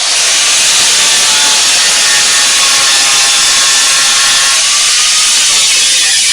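Angle grinder grinding down fresh spot welds on steel car-body sheet metal, flushing the weld beads that filled the pinholes. A loud, steady grinding that starts suddenly.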